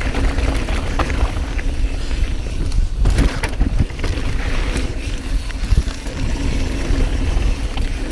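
Mountain bike descending a rough dirt trail: a continuous rumble of tyres and wind, with the bike rattling and clicking over bumps.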